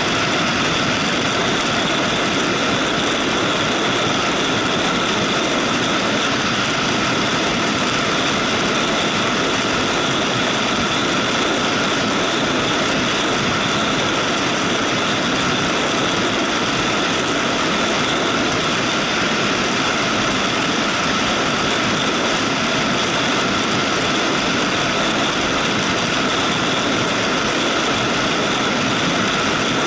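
Motorcycle riding at a steady speed, its engine drone mixed with wind and road noise, unchanging throughout.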